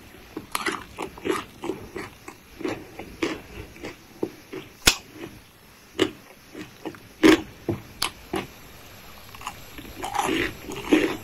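Close-miked chewing of spicy green papaya salad and raw vegetables: wet mouth smacks and crisp crunches, a few a second, with sharper crunches about five and seven seconds in and busier smacking near the end.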